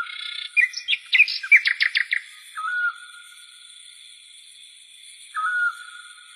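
Birds singing: short whistled calls, with a quick run of about six notes around a second in and another call near the end, over a steady high-pitched ringing.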